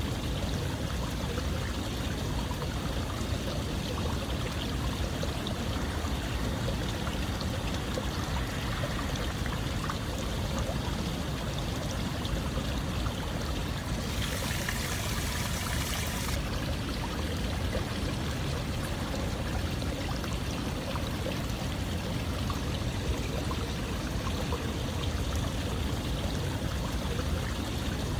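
Running water flowing steadily, with a brighter hiss for about two seconds around halfway through.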